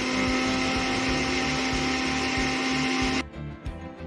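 Electric mixer grinder running steadily at full speed, blending eggs, sugar and vanilla essence in its jar, then switched off abruptly about three seconds in.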